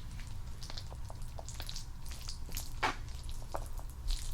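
Close-miked wet, sticky clicks and squelches of spaghetti in meat sauce being handled, scattered and irregular, with one louder click about three seconds in.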